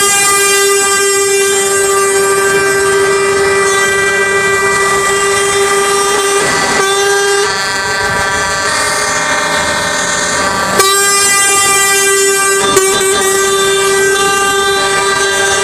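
Truck air horns sounding in long held blasts: one horn held for about seven seconds, a different horn tone for about three seconds, then the first horn again until near the end.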